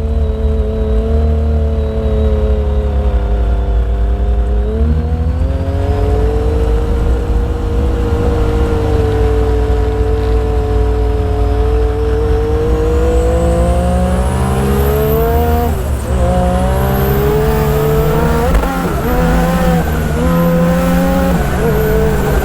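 Turbocharged Yamaha YXZ side-by-side's three-cylinder engine running hard under boost through sand. The engine pitch swells and sags as the throttle changes. A thin, high turbo whine climbs from about halfway and drops back several times near the end.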